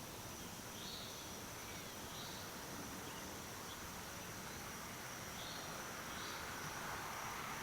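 Night insects: a steady high-pitched trill with a few faint short chirps scattered through, over a low even background hum.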